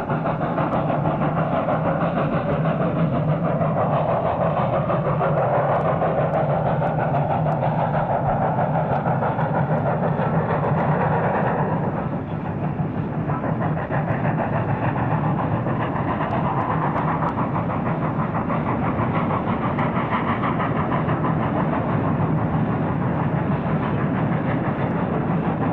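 A train running on rails: a steady, continuous rumble and clatter with a brief dip in level about twelve seconds in.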